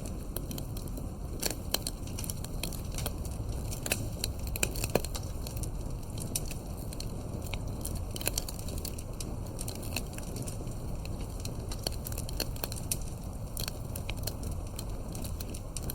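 Wood campfire crackling: irregular sharp pops and snaps, some louder than others, over a steady low rumble.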